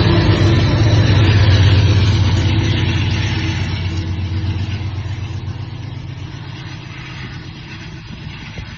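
Diesel locomotive engines working under load up a grade, a steady low drone with wheel-and-rail hiss, fading steadily as the train moves away.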